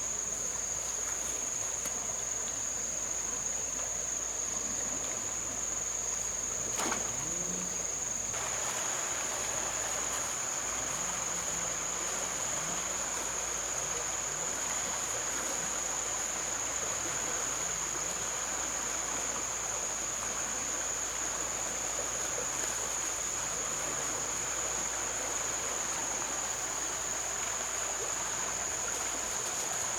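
Insects buzzing in one steady high drone over the even wash of flowing river water, with a single sharp click about seven seconds in.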